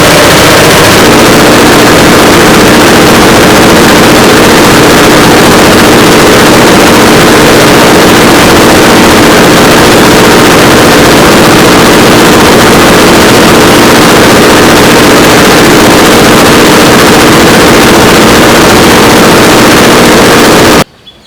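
An engine running steadily at a constant speed, very loud and close. It cuts off abruptly near the end.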